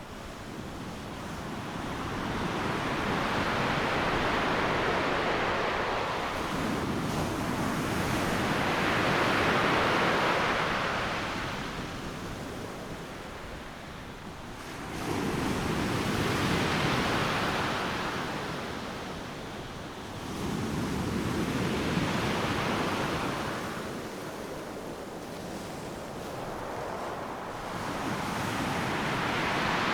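Ocean surf breaking on a beach: a steady wash of noise that swells and ebbs about every six seconds, with a low rumble as each wave comes in.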